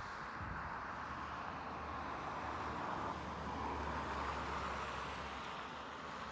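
Airbus A350-900's Rolls-Royce Trent XWB jet engines running, a steady rushing noise with a low hum beneath.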